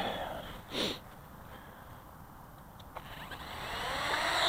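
Parrot Bebop quadcopter's electric motors and propellers spinning up about three seconds in: a whine of several tones, rising in pitch and getting louder.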